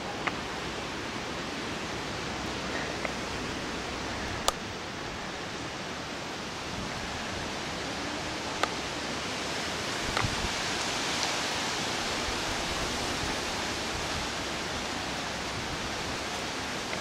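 Storm-force wind rushing steadily, swelling a little louder about two-thirds of the way through, with a few scattered sharp clicks or taps.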